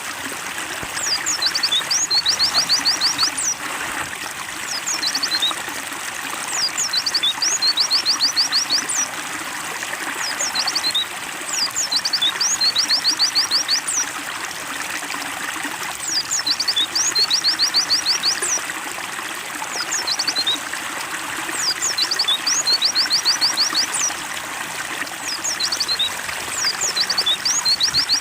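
Water trickles steadily while a white-eye (pleci) sings loud, high phrases about every five seconds: a few quick chirps, then a rapid run of notes. The phrase is nearly the same each time.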